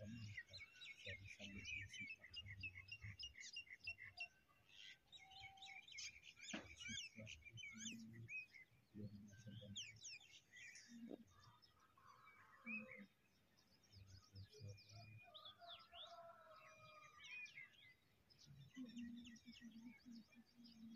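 Faint chirping of many small birds: short high chirps and quick rising and falling whistles, busiest in the first half and thinning out later.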